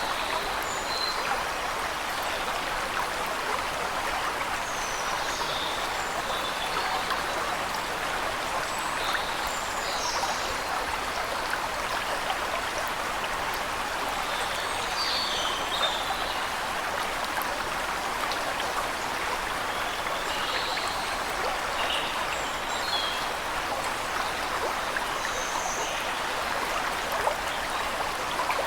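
Waterfall rushing steadily, with short, high bird chirps scattered over it every few seconds.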